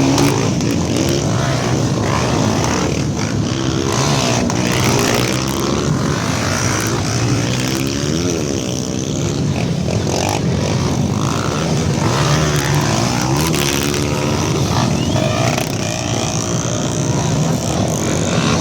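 Several off-road trail motorcycles revving and riding past one after another, their engine notes overlapping and rising and falling in pitch as they leave the start.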